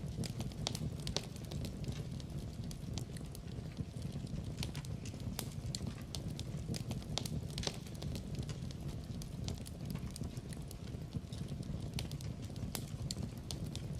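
Wood fire in a fireplace crackling, with frequent sharp pops and snaps scattered irregularly over a steady low rumble of the burning logs.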